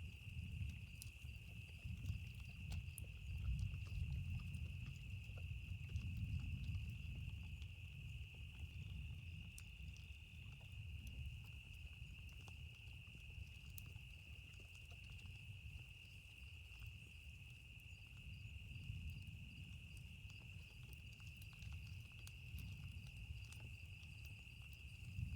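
Campfire crackling with scattered small pops, over a steady high trill of insects and a low rumble of distant thunder that swells and fades.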